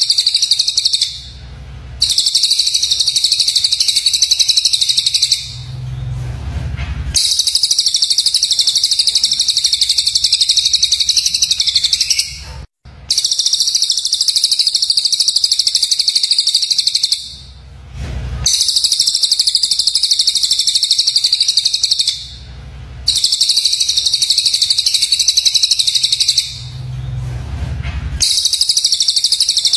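Recorded cucak jenggot and cililin birdsong of the kind used as a master track for training shamas: dense, harsh, high-pitched rapid calls. The calls come in runs of about four to five seconds, each broken by a short pause.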